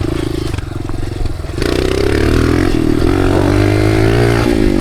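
Dirt bike engine running under a rider. It eases off for about a second, then the throttle opens again and the engine pulls back up, its pitch wavering slightly.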